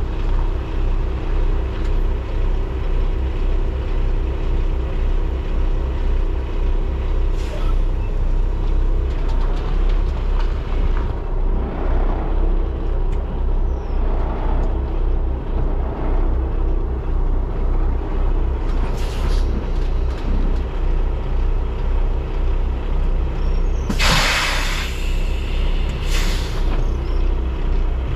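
Semi truck's diesel engine running steadily at low speed while the rig is backed in, with a few short hisses of air and one loud burst of air-brake release about four seconds before the end.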